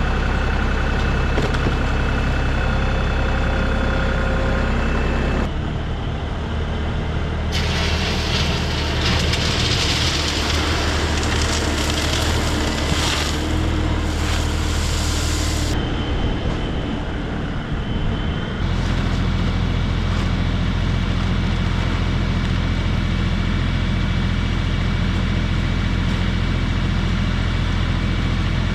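LS MT240E compact tractor's diesel engine running steadily. For several seconds in the middle a rushing noise sits over it, and the sound changes abruptly a few times.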